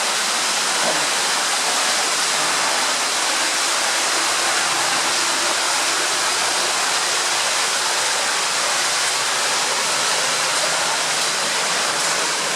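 Water in a flooded underground tunnel rushing steadily, a constant hiss-like roar with no breaks.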